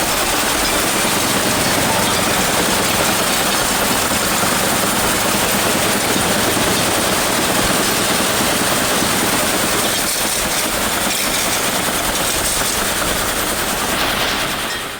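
Shaker table running: a steady, loud rattle of dirt and gravel being shaken across its screen.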